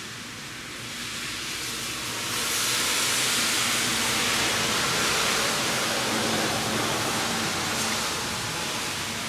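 Car engine running at idle with the air cleaner off, drawing air through the open Holley two-barrel carburetor with a steady hiss. The hiss grows louder about two seconds in, then holds steady.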